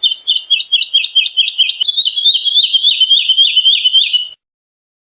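Woodlark singing: one phrase of quick, repeated, slightly down-slurred whistled notes, several a second, running together and ending about four seconds in.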